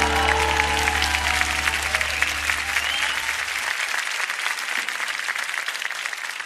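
Audience applauding as the band's final chord rings out and dies away a few seconds in, with one short rising whistle about two seconds in.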